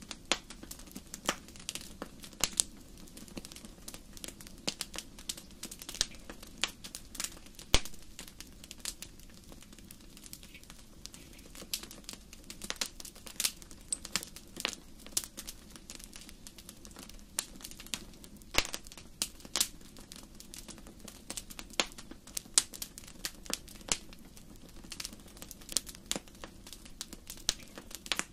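Wood fire crackling in a fireplace: irregular sharp pops and snaps, a few much louder than the rest, over a steady low background of the burning fire.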